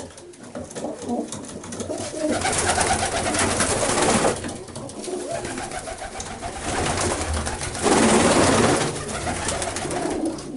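Domestic pigeons cooing in a small enclosed coop, with two louder stretches of rustling noise, about two seconds in and again near the end.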